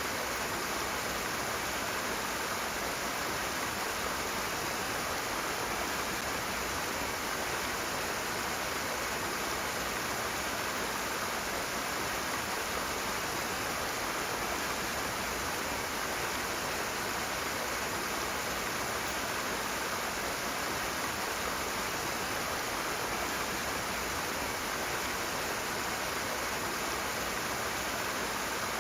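Rushing water: a fast-flowing stream, a steady, unbroken rush.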